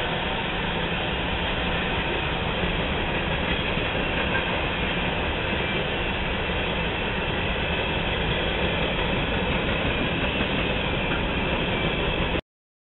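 Freight train cars rolling past, wheels running steadily on the rails. The sound cuts off abruptly near the end.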